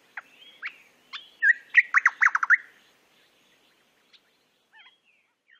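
Recorded birdsong: scattered whistled chirps and short glides, with a loud run of about six quick falling notes about two seconds in, then a few faint calls near the end.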